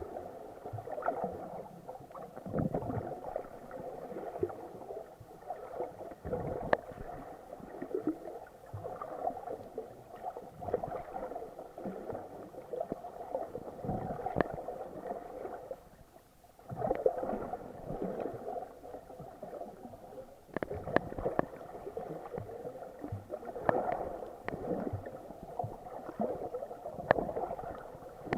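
Muffled gurgling and sloshing of water around an action camera's waterproof housing while snorkeling, with frequent sharp knocks and clicks. It drops away briefly about halfway through.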